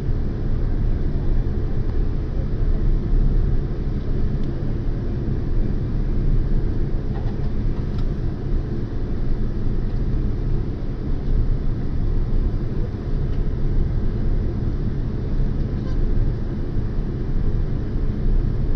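Jet airliner cabin noise during landing: a steady low rumble of engines and airflow heard from inside the cabin.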